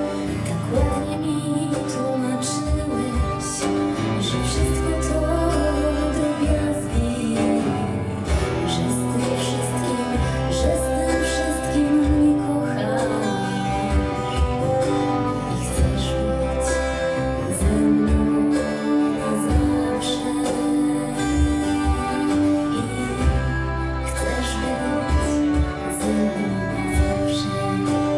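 A live band playing an instrumental passage of a song, with sustained melody tones over a steady bass line and regular drum hits.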